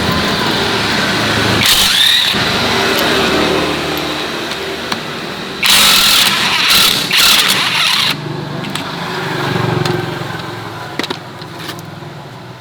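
A four-wheeled farm vehicle's engine running steadily, with loud bursts of hissing noise about two seconds in and again from about six to eight seconds in. The engine sound fades toward the end.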